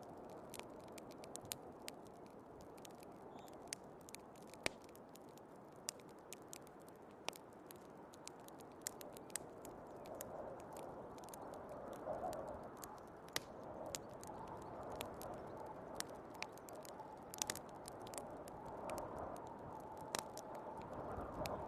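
Wood fire crackling, with frequent sharp irregular pops, over a steady rushing of storm wind.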